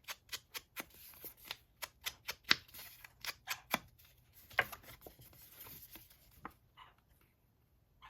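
Ink pad being dabbed quickly and repeatedly onto a rubber stamp, about four light taps a second, slowing to a few scattered taps and stopping about seven seconds in.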